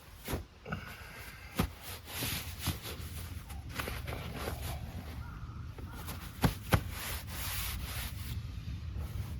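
Rubbing and rustling of camping gear being handled, broken by about six sharp clicks and knocks, the loudest two close together about six and a half seconds in.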